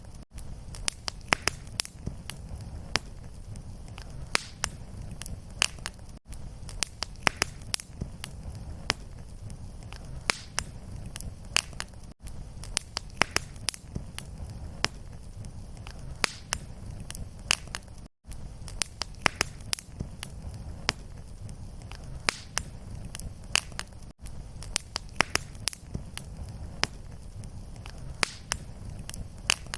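Fireplace fire crackling, with sharp pops several times a second over a low rumble of flame. The sound cuts out for an instant about every six seconds where the recording loops.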